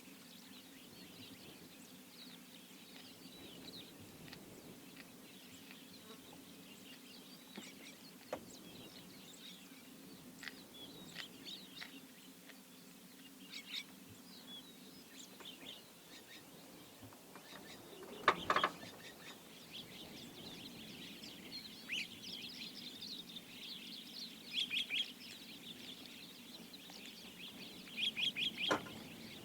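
Wild birds chirping and calling, scattered short calls over a steady low hum, with one louder call about two-thirds of the way through and quick runs of chirps near the end.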